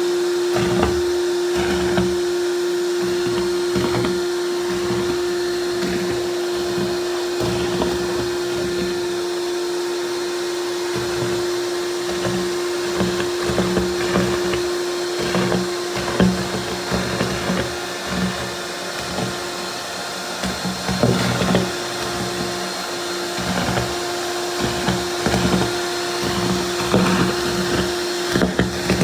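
Vacuum cleaner running steadily with a constant motor hum, with irregular knocks and rattles as it is worked over the floor.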